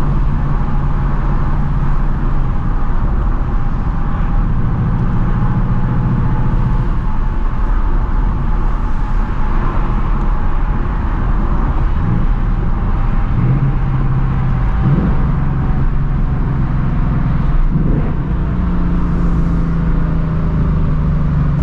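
Stock 2024 Ford Mustang GT's 5.0-litre Coyote V8 with its factory active exhaust, running steadily while cruising, with a few brief changes in engine pitch along the way.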